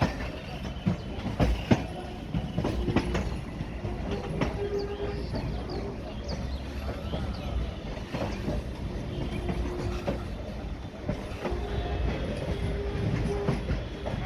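Railway coaches rolling along the track, wheels clattering over the rail joints in irregular clicks over a steady low rumble.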